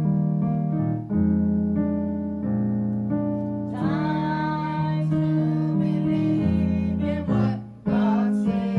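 Gospel keyboard playing sustained chords. Choir voices singing over it begin about four seconds in, and the music briefly drops out just before the end.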